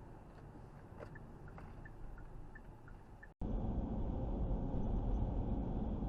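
Steady road and engine noise of a car driving, as picked up by a dashcam, with a few faint ticks. A little past halfway it cuts abruptly to a louder, deeper rumble of driving noise from a different recording.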